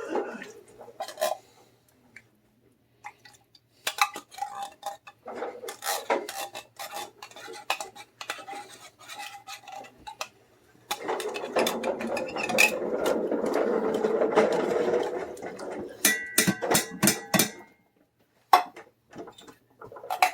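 A metal spoon clinking and scraping against cans and a pot as condensed cream soup is scooped out and stirred into the broth. A steady stretch of stirring runs through the middle, then a quick run of ringing taps about three-quarters of the way in.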